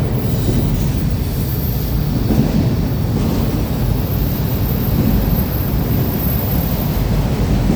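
Freight train rolling past close by, a loud, steady low rumble.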